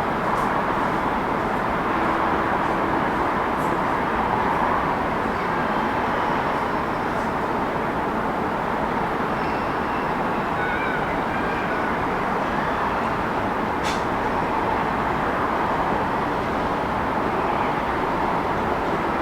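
Steady city traffic noise: a continuous, even rush of passing vehicles, with a single sharp click about two-thirds of the way through.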